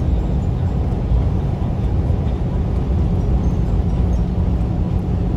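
Steady road and engine rumble of a moving car, heard from inside the cabin, with a low steady hum joining about halfway through.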